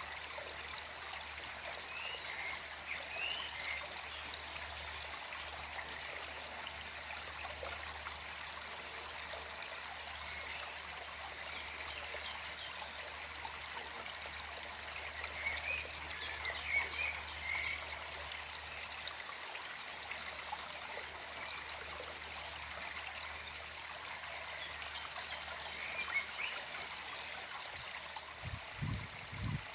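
Small forest stream flowing and trickling steadily, with birds chirping in short clusters of high calls every several seconds. A few brief low thuds come near the end.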